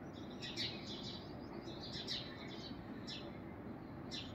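Small birds chirping: short, high, falling chirps in little clusters about once a second, over a faint steady background hiss.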